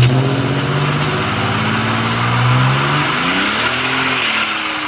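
A vehicle engine running, its speed sagging slowly, then revving up and back down once about three and a half seconds in.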